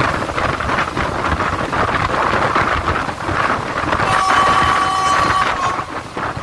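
Wind buffeting the microphone out of the window of a moving passenger train, over the rumble of the train running. About four seconds in, a train horn sounds one steady two-tone blast lasting nearly two seconds, then stops.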